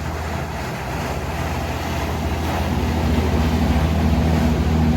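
Motorboat engines running steadily and growing louder as the boat approaches through the inlet.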